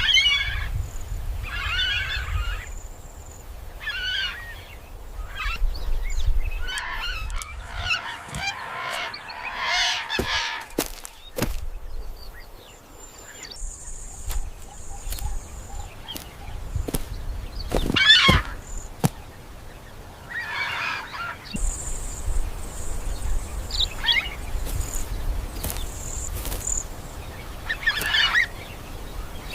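A bird calling repeatedly, short harsh calls every second or two, with a pause about halfway through, over a low background rumble.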